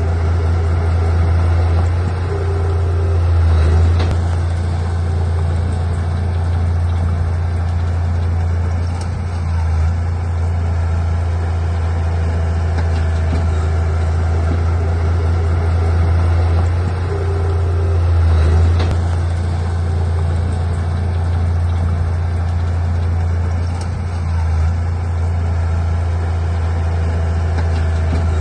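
Heavy diesel engine of earthmoving equipment running steadily with a deep drone, swelling briefly a few times.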